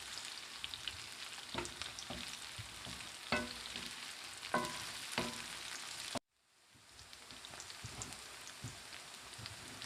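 Pork pieces and fishballs sizzling as they fry in a pan, with a utensil knocking and scraping against the pan a few times as they are stirred. The sound cuts out abruptly about six seconds in, then the sizzle comes back.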